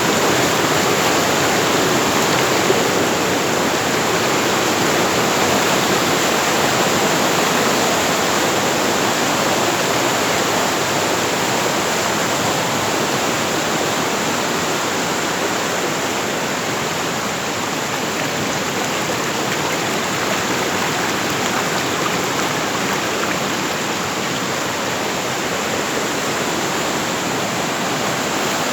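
Fast-flowing water rushing steadily, an even, fairly loud rush with no let-up.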